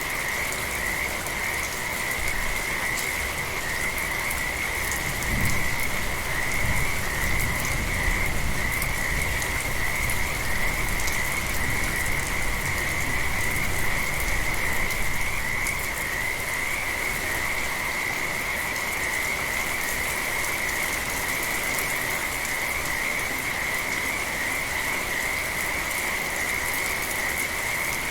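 Steady rain with a dense frog chorus, the calls merging into one continuous high trill. A low rumble comes up about five seconds in and fades out by about fifteen seconds.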